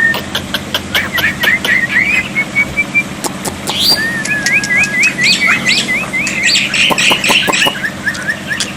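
Black-winged starling (jalak putih) singing a varied song: sharp clicks and chatter mixed with whistled notes. In the middle comes a quick run of short, rising notes, several a second.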